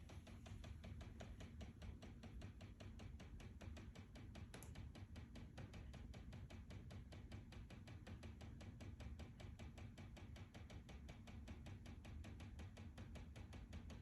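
Faint, rapid, evenly spaced ticking from inside a house wall, about five clicks a second, keeping a steady rhythm; its cause is unknown.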